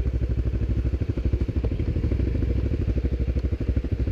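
ATV engine running with a steady, low-pitched pulsing beat.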